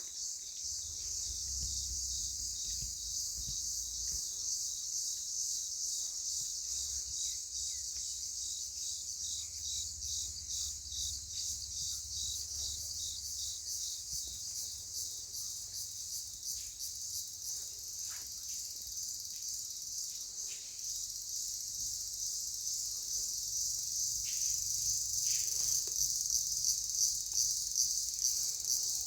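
Insect chorus, cricket-like: a dense, high chirring with a fast even pulse that never lets up.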